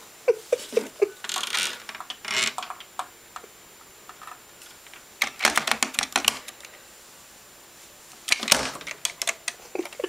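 A cat pawing and knocking at a Princess telephone: plastic clicking and clattering in several bursts, with quiet stretches between.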